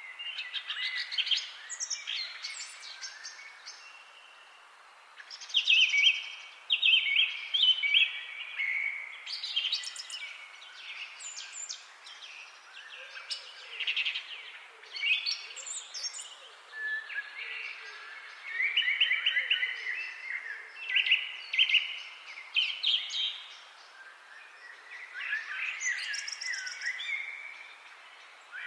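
Several songbirds singing and chirping in short, repeated phrases of quick high notes and trills, over a faint background hiss.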